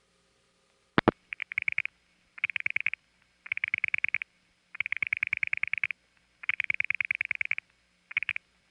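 Dial pulsing heard down a telephone line: a crossbar tandem sending digits to a distant step-by-step tandem as trains of rapid clicks, about ten a second, one train per digit with short pauses between. The pulsing is preceded by a single sharp click about a second in.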